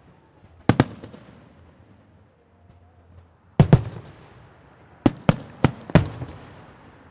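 Fireworks bursting in sharp bangs, each trailing off in an echo: a pair under a second in, another pair about halfway, then four in quick succession near the end.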